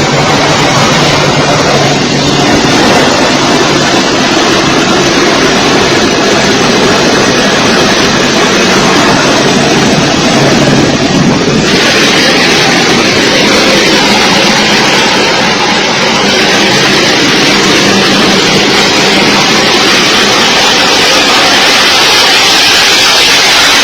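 Loud, steady jet aircraft engine noise with a low hum under a strong rushing hiss; about twelve seconds in the hiss turns brighter and stays that way.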